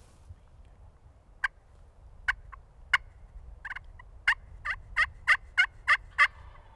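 A turkey yelping: a run of sharp, separate yelps, each dropping in pitch. They come a few at a time at first, then settle into a steady string of about three a second near the end.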